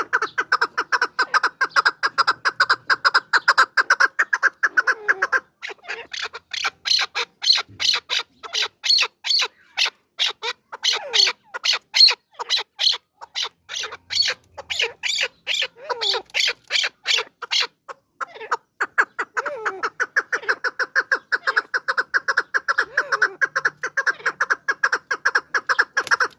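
Chukar partridge calling: a long, fast run of short repeated clucking notes, several a second, louder and shriller through the middle stretch before settling back.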